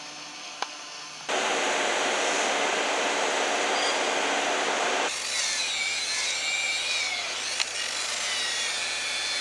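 Handheld power tool, a sander or polisher, working against a boat's fibreglass hull. After a quiet second it starts abruptly with a loud, even grinding noise. About five seconds in it changes to a steady low hum with a wavering high whine.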